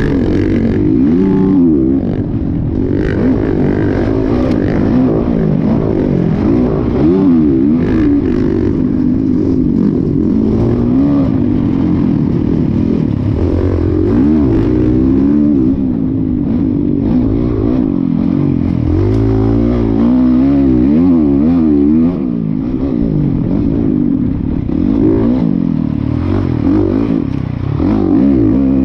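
Dirt bike engine running hard while riding, its pitch rising and falling over and over with the throttle and gear changes, with a few short knocks.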